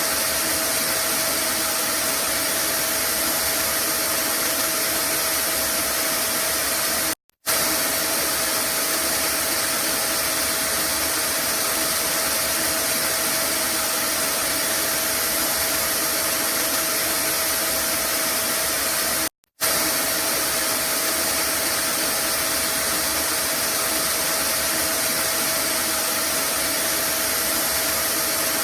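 Vacuum cleaner running steadily, a loud even rush with a faint steady hum in it, used as white noise. The sound cuts out completely for a split second twice, about seven and nineteen seconds in.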